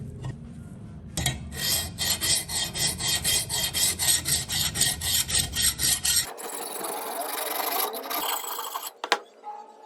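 Hand abrasion of a steel scissor blade during rust removal and sharpening: rapid rasping back-and-forth strokes, about four or five a second, start about a second in. Past the middle they give way to a steadier scraping that fades near the end.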